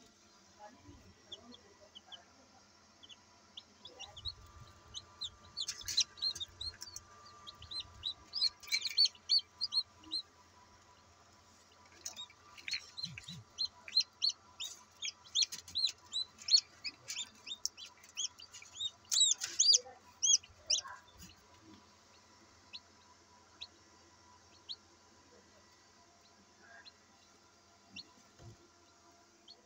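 Newly hatched Australorp chicks peeping: bouts of rapid, high-pitched chirps that grow busiest around the middle and thin out to occasional peeps in the last third.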